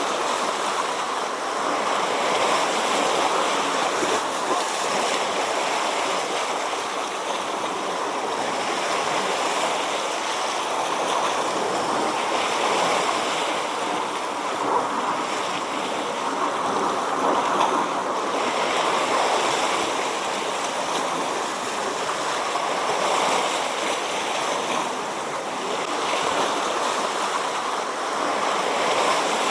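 Sea waves washing in, a continuous rushing noise that swells and eases every few seconds.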